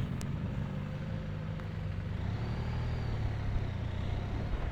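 Motorcycle engine running steadily at low revs while the bike rolls slowly, a continuous low hum.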